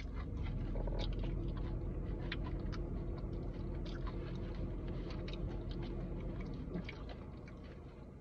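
Close-up chewing of food, with many small sharp mouth clicks and smacks.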